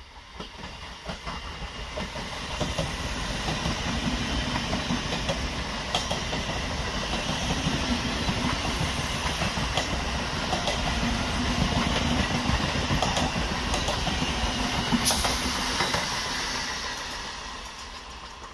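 ICF-built electric multiple unit (EMU) local train passing close by, its wheels clattering over the rail joints in a steady run of clicks. The noise builds over the first few seconds and fades near the end, with one sharp click about fifteen seconds in.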